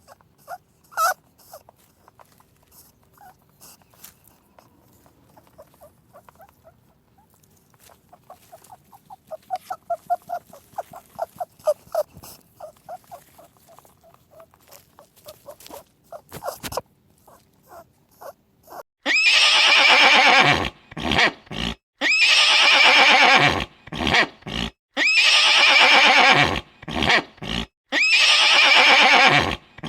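Farm animal calls: faint scattered clicks, then a quick rhythmic run of short grunt-like pulses in the middle, then loud drawn-out calls, each about a second and a half long, repeating every two to three seconds through the last third.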